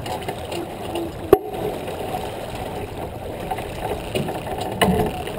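Rushing wind and water noise aboard a J24 sailboat under way. There is a sharp knock about a second in and a duller thump near the end.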